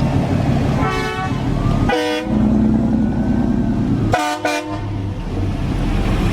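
Car horn honking in short blasts: one about a second in, another about two seconds in, and a quick double toot a little after four seconds. Under the honks runs a steady low rumble of engines.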